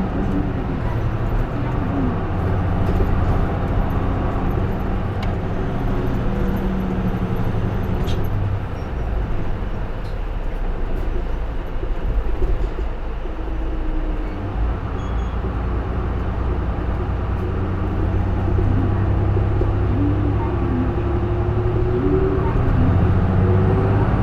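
Cabin sound of a J-Bus PKG-LV234L2 (Isuzu Erga) city bus under way, its diesel engine running steadily with the heater on. The engine eases off partway through, then pulls again with its pitch rising and falling.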